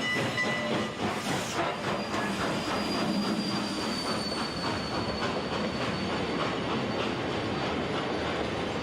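Train rolling on rails with a rhythmic clatter, and a thin, high wheel squeal that sets in about two seconds in and fades out near the end.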